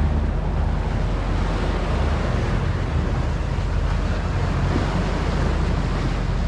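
A sailing yacht motoring at about 8 knots: its engine runs at a steady hum beneath water rushing along the hull and wind on the microphone.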